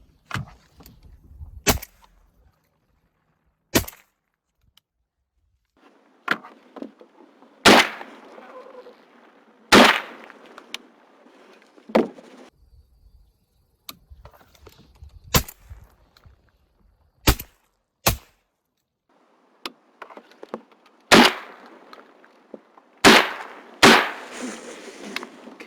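Sharp knocks about every two seconds, with water splashing between them: a kayak being paddled, the paddle striking the hull on the strokes.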